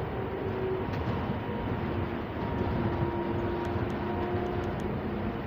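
Driverless rubber-tyred people mover (Bombardier Innovia APM 300) running along its guideway, heard from inside the cabin: a steady rumble of the tyres with faint steady whines from the drive.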